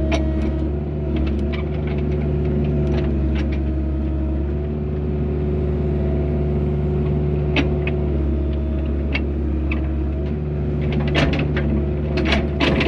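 Mini excavator's diesel engine running steadily, with scattered clicks and a burst of clanks and scrapes near the end.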